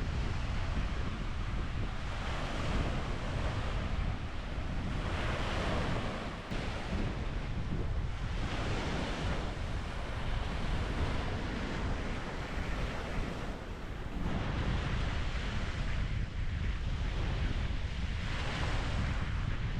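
Wind blowing across the microphone: a steady low rumble with a hiss that swells and fades in gusts every few seconds.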